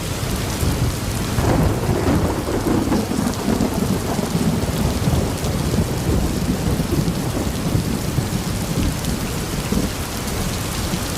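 Thunderstorm: steady heavy rain with a long, low roll of thunder that swells about a second and a half in and rumbles on for several seconds before easing.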